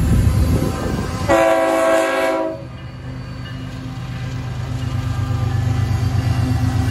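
BNSF diesel freight locomotives approaching: one horn blast, a chord a little over a second long, sounds about a second in. The steady low rumble of the engines follows and grows louder as the units draw near.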